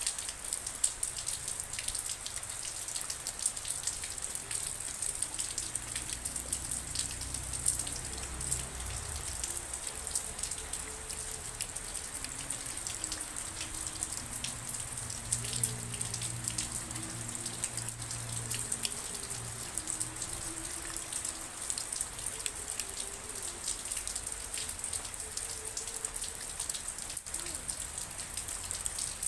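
Steady rain: an even hiss with many individual drops ticking sharply on a surface. A faint low rumble sits beneath it at times.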